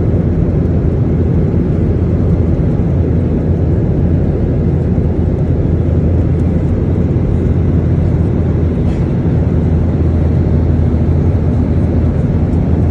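Airliner cabin noise in flight: a steady, loud, low-pitched drone of engines and rushing air with a constant low hum underneath.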